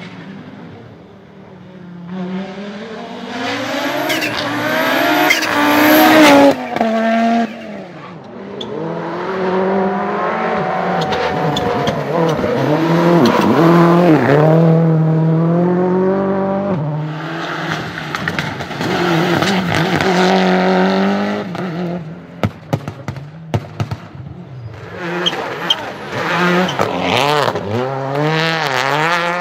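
Rally car engines revving hard, with the pitch climbing and dropping through gear changes as the cars drive past. The loudest run comes about five seconds in. A string of sharp pops follows near the end.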